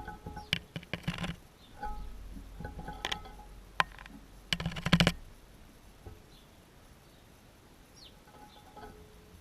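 Pet birds giving short chirps amid bursts of clicking and rustling. The loudest rustling burst comes about five seconds in, and a sharp click a little before it.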